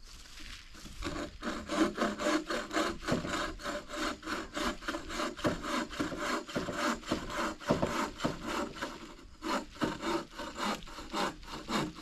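Hand saw cutting through a downed tree limb, in steady back-and-forth strokes at about three a second, with a brief pause about nine seconds in before the strokes resume.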